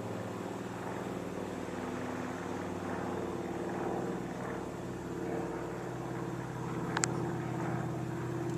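Merlin V12 piston engine of a Second World War fighter plane droning steadily as it circles to land, growing a little louder near the end.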